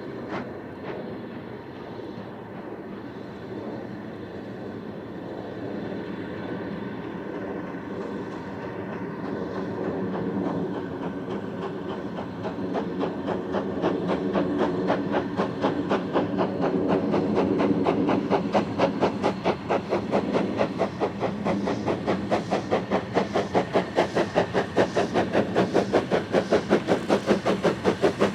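A train approaching and growing louder, its sound settling into a steady rhythmic beat of about four a second that strengthens toward the end.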